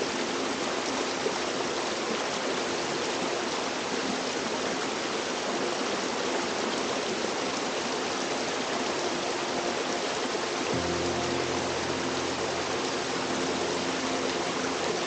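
Steady rush of a small waterfall cascading down a brook, with soft background music held under it; lower sustained notes come in about eleven seconds in.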